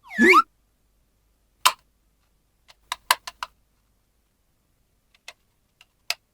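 A short squeaky sliding sound, then scattered sharp clicks and taps of small plastic toy pieces being handled and set down, including a quick run of four clicks about three seconds in.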